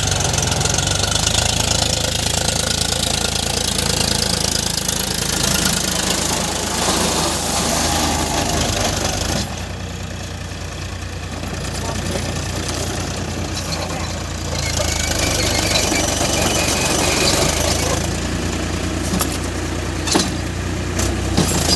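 Tractor diesel engine running steadily, easing off for a few seconds in the middle before picking up again.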